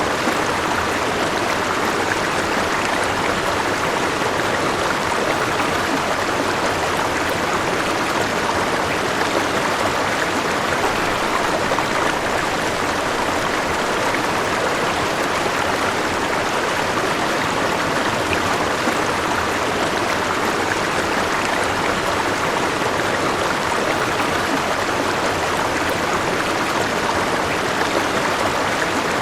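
River water flowing over rocks, a steady rushing and babbling that stays even throughout.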